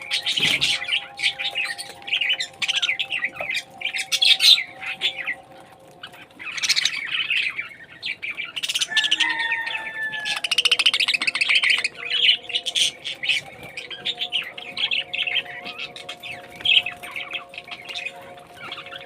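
A flock of parrots kept in breeding pairs chirping and squawking continuously, with a quick rattling chatter about halfway through, over a faint steady hum.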